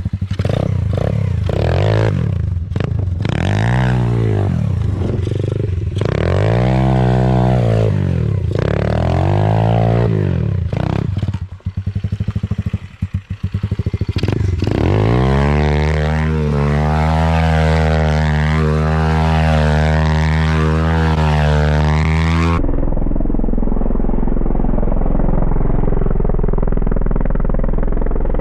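Stomp pit bike engines, small single-cylinder four-strokes, revving up and falling back again and again as the bikes are ridden hard. After that comes a stretch of steady high-revving running. Near the end the sound cuts abruptly to a duller, muffled engine rumble.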